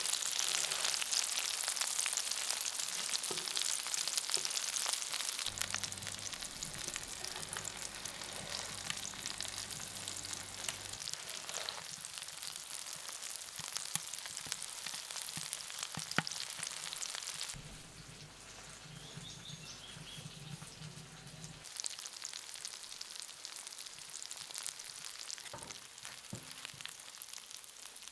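Food sizzling and crackling as it fries in a pan. The sizzle drops quieter about two-thirds of the way through.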